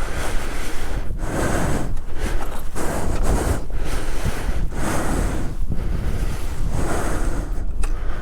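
Heavy breathing close on the microphone, about one breath a second, over wind noise.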